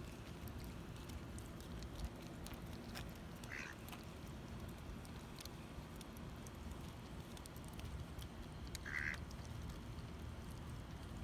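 A duck quacks twice, once about a third of the way in and more loudly near the end, over a steady low background rumble with scattered faint ticks.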